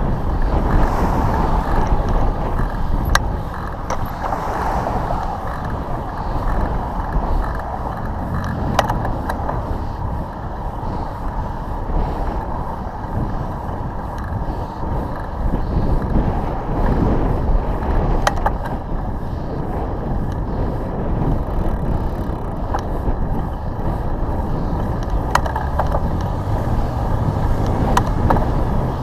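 Wind buffeting the microphone of a cyclist's camera over the rumble of passing road traffic, with a few sharp clicks and a vehicle engine rising in pitch near the end.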